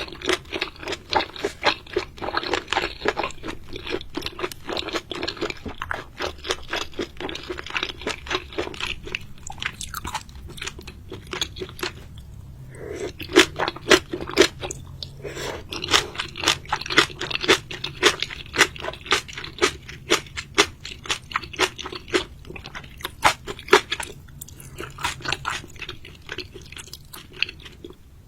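A person chewing and crunching seafood close to the microphone: rapid runs of sharp, crackly crunches with brief pauses between mouthfuls.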